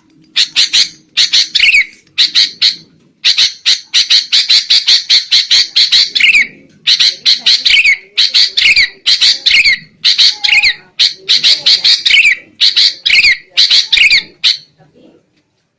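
Sooty-headed bulbuls (kutilang) giving agitated, noisy chatter: rapid runs of harsh notes in repeated bursts, many ending in a falling slur, breaking off briefly near the end. This excited 'ribut' calling is the kind used as a lure to draw wild bulbuls.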